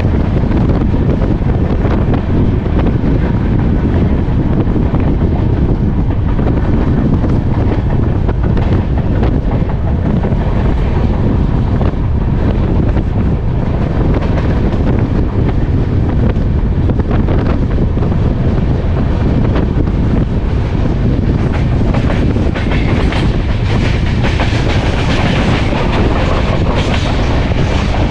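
Moving passenger train running along the track: a steady low rumble of wheels on rails with faint clicks over the rail joints, and a harsher hiss building in the last several seconds.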